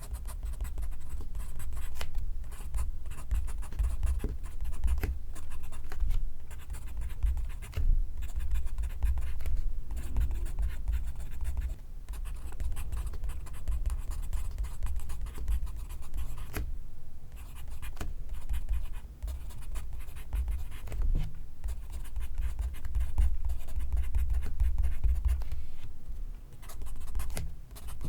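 Close-miked pencil writing on paper: quick runs of scratchy strokes with a few short pauses.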